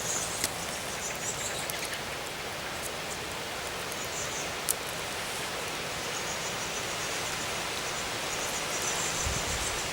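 Steady outdoor hiss with faint, high-pitched chirps of small birds now and then, and one sharp click a little under halfway through.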